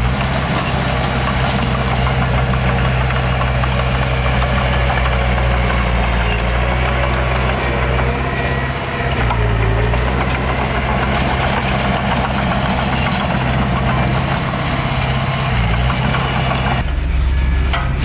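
Diesel engine of heavy earthmoving machinery running steadily, a low drone with clatter and hiss over it, the engine note dipping briefly twice. Near the end the higher clatter and hiss drop away, leaving the low engine drone.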